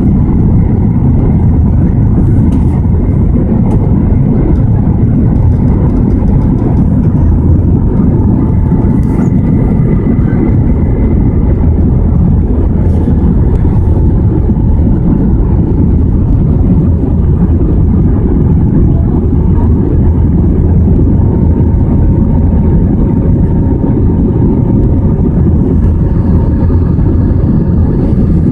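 Steady cabin noise inside an Airbus A320 airliner: an even, loud low rush of engines and airflow, with faint steady tones above it.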